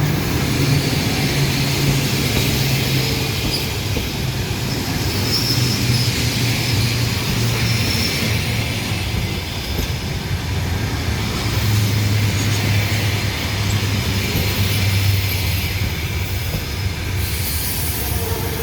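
Passenger train rolling in slowly to stop at a platform: a steady rumble of coach wheels on the rails, with faint squeals from the wheels and brakes.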